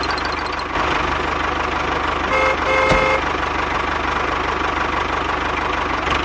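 A small motor running steadily with a low, even pulse, typical of a DIY mini tractor. About two and a half seconds in there is a short two-part horn toot.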